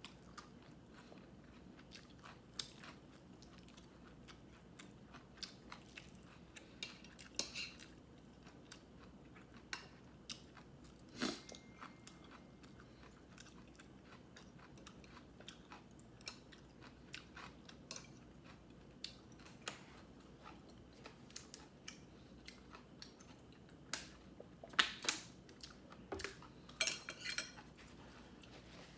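Close-miked eating: quiet chewing and crunching with scattered short clicks of utensils against dishes. A sharper clink with a brief ring comes about eleven seconds in, and a cluster of louder crunches and clicks comes near the end.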